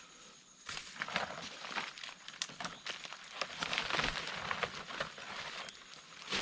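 Footsteps crunching through dry leaf litter and twigs on a forest floor, an uneven run of crackling steps that starts about a second in.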